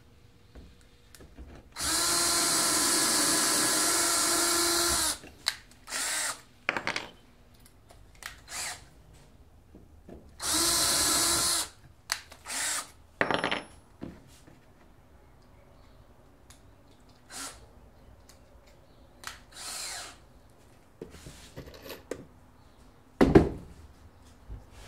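Power drill running at a steady pitch in two long runs, about three seconds and then about a second and a half, with several shorter bursts between, while building a wooden carriage. A sharp knock near the end is the loudest sound.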